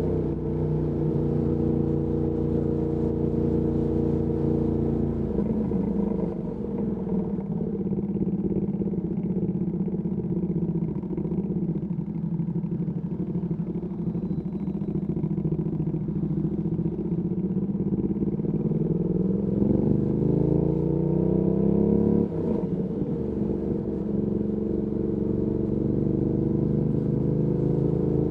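Ducati Panigale V2S's V-twin through a Termignoni exhaust, running at low, steady revs in city traffic. About two-thirds of the way through it revs up under acceleration, then drops suddenly at a gear change and settles back to a steady run.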